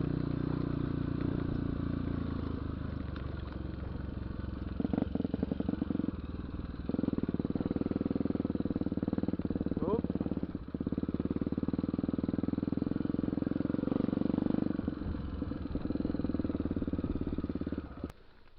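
Honda Tornado single-cylinder motorcycle engine running under way, its note shifting several times with throttle and gear changes. It cuts off abruptly near the end.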